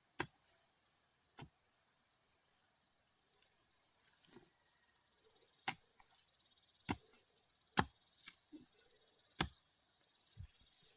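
A high, short rising chirp repeats about once a second, like a calling insect or bird. Sharp single knocks stand out against it at uneven intervals, about eight in all.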